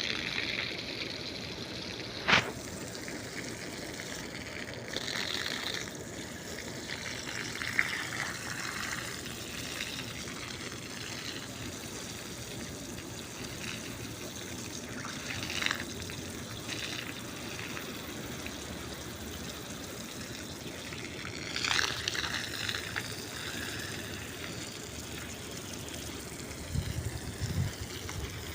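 Water gushing steadily under pressure from an irrigation outlet, with a couple of sharp knocks in the first eight seconds.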